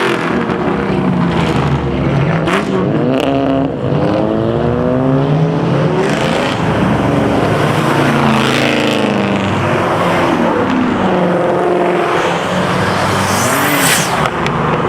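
High-powered car engines revving and accelerating away, several pitches rising and falling and overlapping one another. A thin high whine rises sharply about thirteen seconds in.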